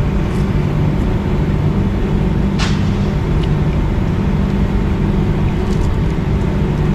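Steady low rumble with a constant low hum, with one short sharp click about two and a half seconds in.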